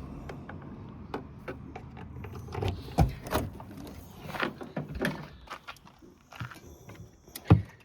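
Scattered clicks and knocks of hands-on work around a car, with a sharp knock about seven and a half seconds in.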